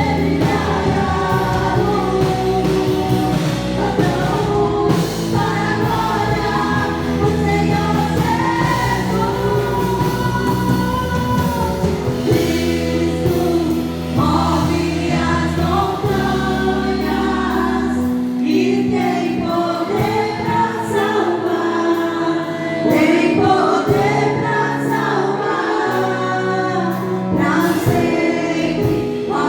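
Gospel worship music: several voices singing together over instrumental accompaniment, with held, sustained notes. The deep bass drops out a little past halfway.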